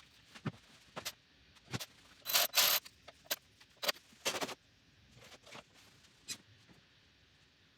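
Pushrods and rocker arms of an LS3 engine being handled and fitted: scattered light metal clicks and knocks, with two short louder rattling scrapes about two and a half and four seconds in.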